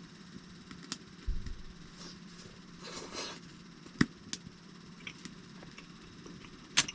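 A few sharp clicks and knocks of small objects being handled, with a low thump about a second in and a brief rustle about three seconds in, over a low steady hum.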